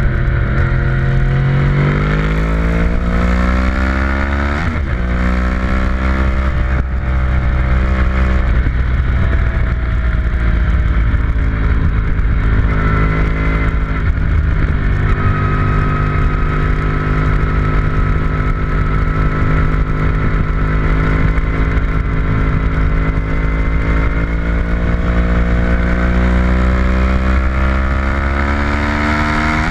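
A vehicle's engine at speed on a race track, pulling hard with a rising pitch, then a sudden drop at a gear change about four and a half seconds in. It eases back around eight seconds, holds a long steady stretch, and climbs again near the end to another shift.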